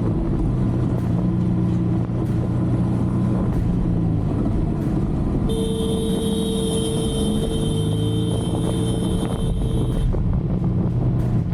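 A vehicle engine running steadily, with a long, steady horn blast starting about halfway through and lasting around four and a half seconds.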